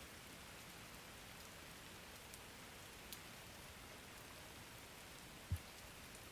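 Faint, steady rain on a surface. There is a small click about three seconds in, and a short, low thump near the end, which is the loudest sound.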